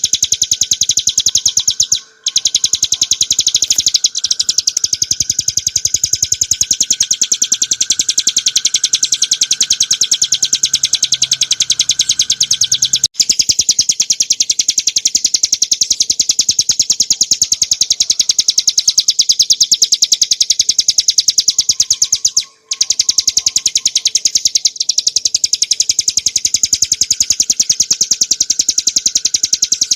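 Ciblek gunung (a prinia) singing a long, very rapid high-pitched trill, the fast run of notes called "ngebren", broken only by brief breaks three times.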